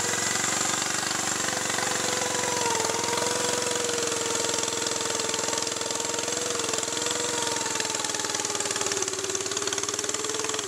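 Lawn tractor engine running at a steady speed, its pitch wavering slightly.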